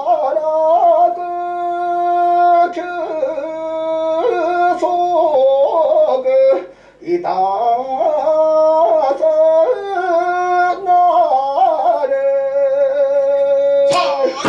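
A solo voice singing a slow kagura chant in long held notes, with wavering ornaments where the pitch bends between them. It breaks briefly for a breath about seven seconds in.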